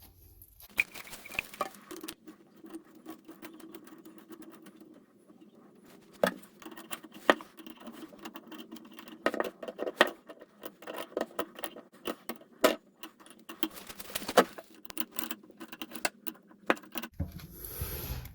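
Irregular clicks, clinks and light knocks of a new toilet water supply line being handled and its fittings screwed on, over a faint steady hum.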